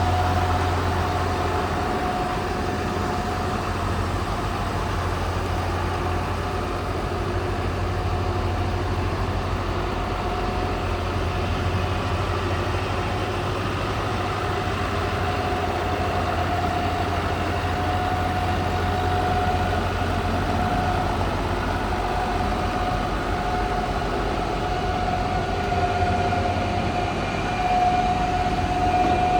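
John Deere 7200 tractor's six-cylinder turbo diesel engine idling steadily, with a steady whine above the low engine note.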